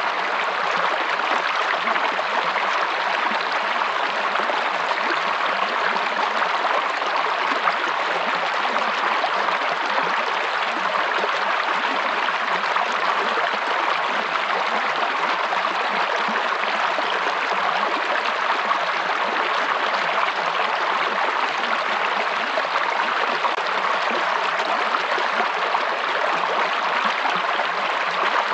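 A stream of running water flowing steadily, an even, unbroken rush.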